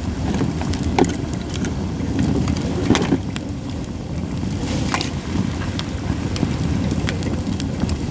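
Japanese white pine firewood burning in a fire pit, crackling with frequent small ticks and sharp pops, the loudest about a second in, near three seconds and near five seconds. A steady low rumble runs underneath.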